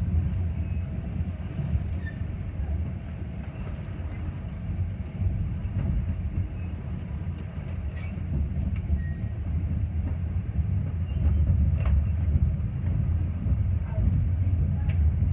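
Metra commuter train rolling along the rails, heard as a steady low rumble from on board, growing a little louder about two-thirds of the way through, with a few sharp clicks.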